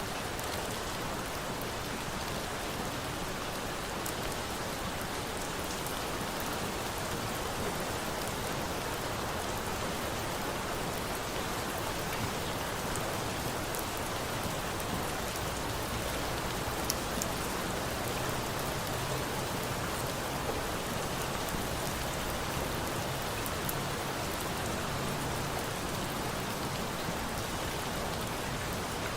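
Steady rain falling, an even hiss throughout, with a few faint sharp ticks.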